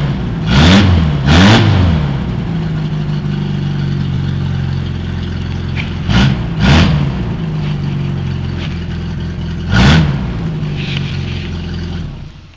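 1989 Chevy S10's 2.5-litre four-cylinder engine idling through a straight-piped exhaust with no muffler, blipped five times: two quick revs just after the start, two more around six seconds, one near ten seconds. The engine sound stops abruptly near the end.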